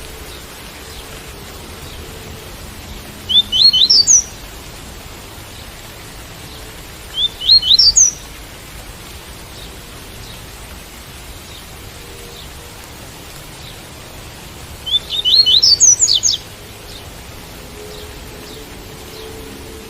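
Coleiro (double-collared seedeater) singing its tui-tui song in three short phrases of quick, high, rising notes, about three, seven and fifteen seconds in, the last the longest. A steady hiss of rain runs beneath.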